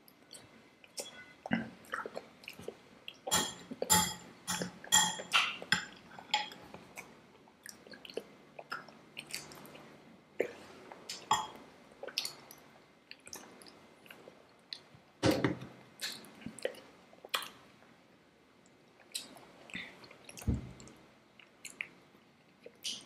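Close-miked chewing and wet mouth sounds of people eating soft Indian sweets, in irregular short clicks and crackles, thickest about three to six seconds in.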